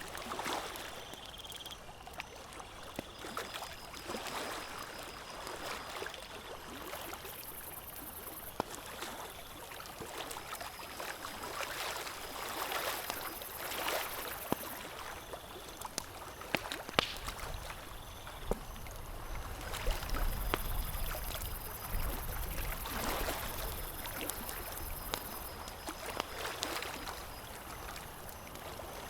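Campfire crackling with scattered sharp pops, over a steady wash of water lapping in slow swells every few seconds.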